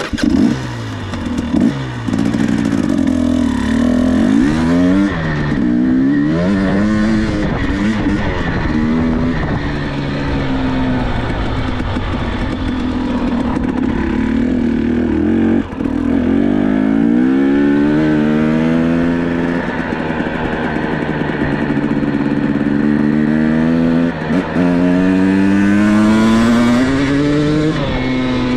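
Dirt bike engine running during a ride, its pitch repeatedly rising and falling as the throttle is opened and closed, with two brief dips partway through.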